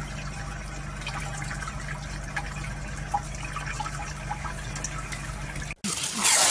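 Steady rushing noise like running water, over a low hum.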